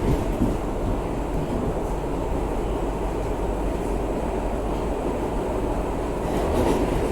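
R62A subway car running through the tunnel: a steady rumble of wheels on rail, growing a little louder near the end.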